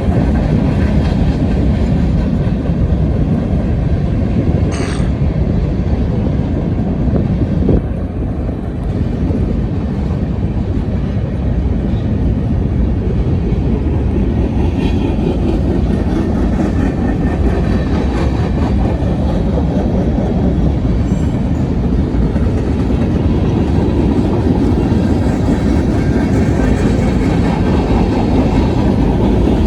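Union Pacific mixed freight train's cars rolling past, a steady low rumble of wheels on rail, with a brief high squeak about five seconds in.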